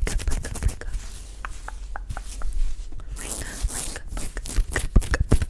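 Close-miked ASMR mouth sounds: a run of small, irregular clicks and smacks over a soft rubbing on the microphone, with a brief hiss about three seconds in.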